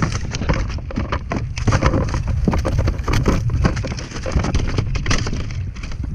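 Quick irregular splashes, drips and knocks of water and gear on a fishing kayak, over steady wind rumbling on the microphone.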